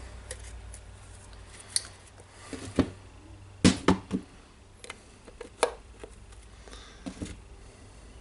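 Scattered clicks and knocks of small tool parts being handled and fitted during reassembly of a rotary hammer drill, a few in quick succession about halfway through, over a faint low hum.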